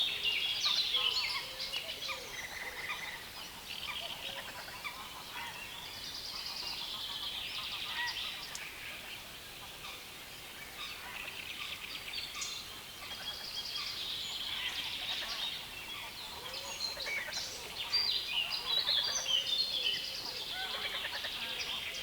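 Dense chorus of birds singing in a reedbed: many overlapping chattering, trilling songs at once, with some lower calls mixed in.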